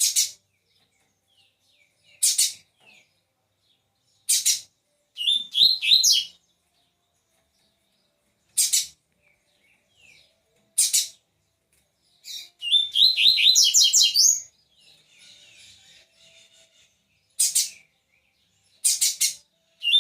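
Double-collared seedeater (coleiro) singing, with short sharp high notes every couple of seconds. Two brief bursts of rapid song come about five and thirteen seconds in, and soft twittering follows the second.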